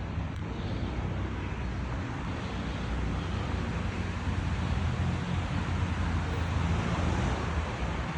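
Steady outdoor background noise with a constant low rumble and no distinct events.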